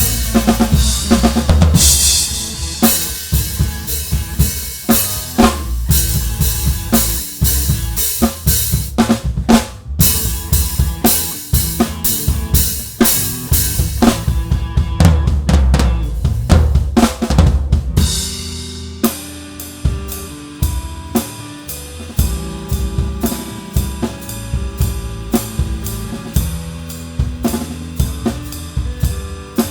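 Drum kit played live by a band's drummer, heard up close: bass drum, snare and cymbals loud over the band. About two-thirds of the way through, the heavy fills and cymbal crashes give way to a lighter, even beat, and bass and guitar notes come through more clearly.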